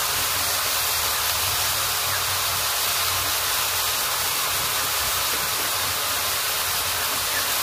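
Chicken pieces sizzling steadily in hot oil in a kadai.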